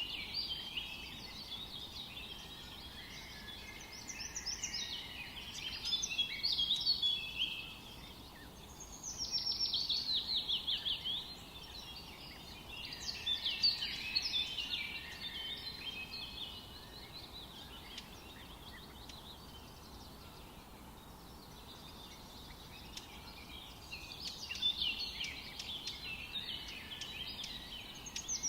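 Songbirds singing in a forest: bursts of quick chirping phrases every few seconds, one a fast run of falling notes, over a faint steady background hiss.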